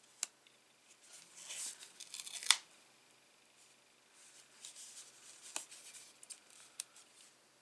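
Card stock being handled and shifted into place: light papery rustling with a few sharp taps, the loudest about two and a half seconds in.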